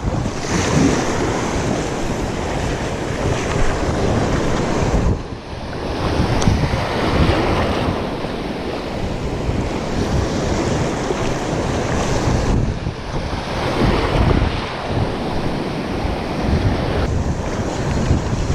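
Wind buffeting the microphone over breaking surf, with gusts that ease briefly about five seconds in.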